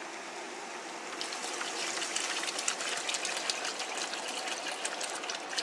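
Water being poured into a pot of boiling curry, a steady splashing pour that starts about a second in.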